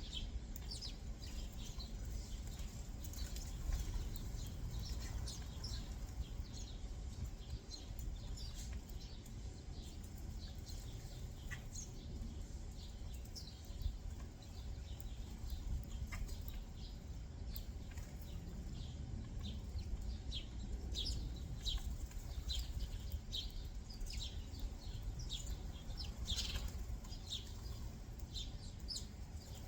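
Small backyard songbirds chirping: many short, high chirps that sweep quickly downward, coming in irregular clusters, over a steady low background rumble.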